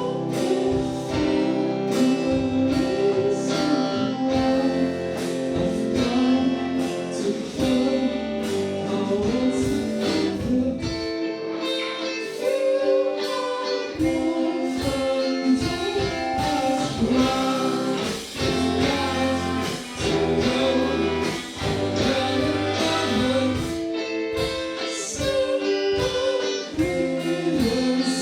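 Live indie rock band playing a song: guitar chords and a sung vocal line over a steady drum beat.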